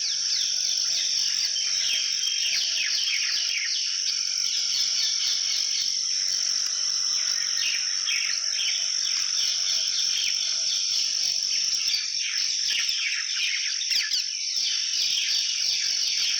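Outdoor insect and bird chorus: a steady high-pitched insect trill, likely crickets or cicadas, runs throughout, with many small birds chirping in quick falling notes over it.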